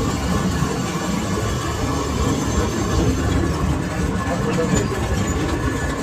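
Lathe machine running steadily, a dense low rumble with faint steady tones above it.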